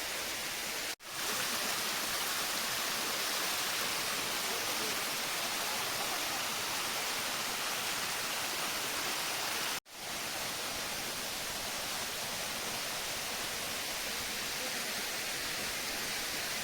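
Steady rush of a waterfall's falling water, cutting out abruptly for an instant twice, about a second in and again near ten seconds in.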